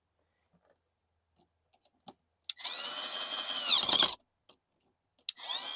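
Power drill motor whining in a short run of about a second and a half, speeding up and then slowing, with a second run starting near the end. A few faint clicks come before it.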